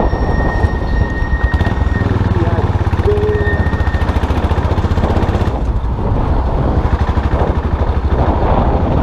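Custom motorcycle engine running under way, a steady low rumble mixed with wind and road noise; a thin high squeal is heard briefly near the start and again about three seconds in.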